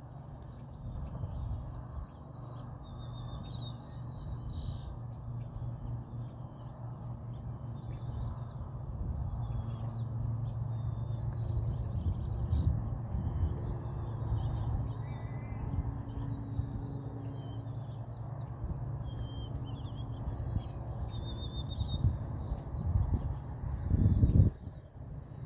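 Many small birds chirping continuously over a steady low rumble, which swells louder briefly near the end.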